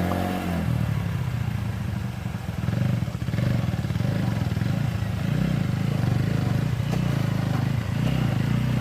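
Motorcycle engine running steadily at low revs, with a fast pulsing beat.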